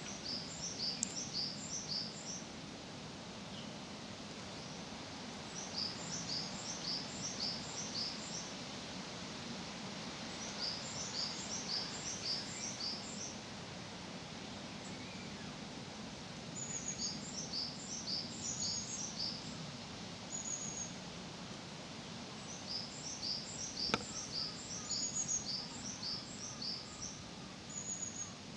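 A songbird singing short phrases of quick, high notes, about one phrase every five seconds, over a steady low background hum. A single sharp click about 24 seconds in.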